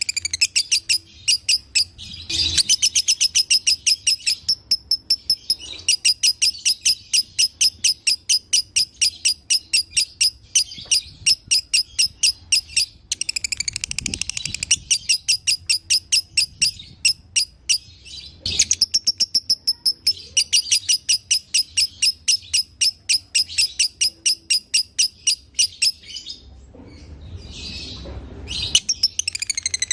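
Lovebird singing a long ngekek: a rapid, shrill chattering trill of chirps, several a second, in long runs broken by a few short pauses.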